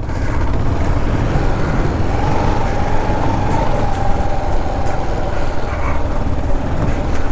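Kawasaki KLR650's single-cylinder four-stroke engine running steadily while riding a dirt trail, with rumble and wind noise on the microphone. A faint higher engine note holds for a few seconds in the middle.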